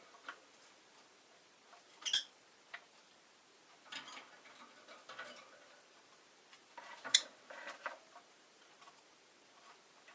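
Caged rosy-faced lovebirds making a few short, sharp chirps and clicks, the loudest about two seconds in and again about seven seconds in, with faint ticking and shuffling between.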